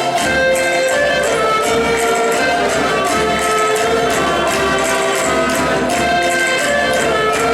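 Traditional Portuguese folk music: several held melody lines over a steady percussion beat.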